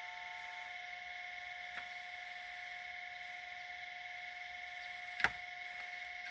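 Log splitter running with a steady hum, then one sharp crack of wood splitting about five seconds in, with a fainter tick earlier.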